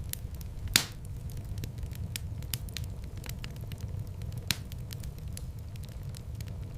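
Wood fire in a fireplace crackling: a steady low rumble of flames with frequent sharp pops, a loud one about a second in and another a little past the middle.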